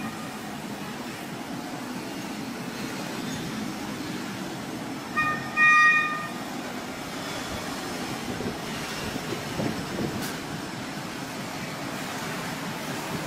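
A train running with a steady rumble. About five seconds in its horn sounds twice, a short blast followed by a longer one.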